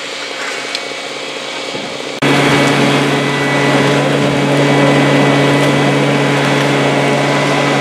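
Machinery running steadily. About two seconds in, it cuts suddenly to a louder, closer small engine running at a constant speed with a steady low hum.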